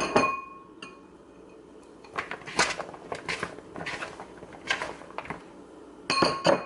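Cut bell peppers and onion being tipped and scraped into a mixing bowl: a sharp clink that sets the bowl ringing at the start, soft clattering and rustling in between, and more clinks with ringing near the end.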